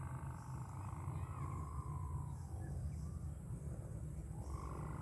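Wind buffeting the microphone as a steady low rumble. Over it a wavering hum dies away about halfway through and comes back near the end.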